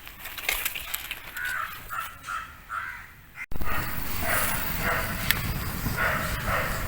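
Crows cawing in a series of short, repeated calls. Partway through, the sound cuts abruptly to a louder background in which the calls continue.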